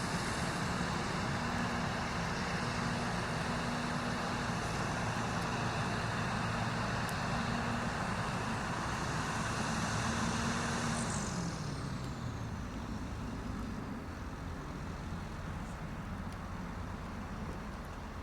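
Caterpillar bulldozer's diesel engine running steadily at high revs, then its pitch drops about eleven seconds in as it throttles down, and it stays quieter to the end.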